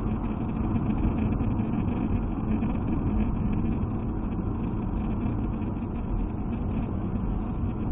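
Steady engine and road rumble of a moving car, heard from inside the cabin through a dash camera's microphone.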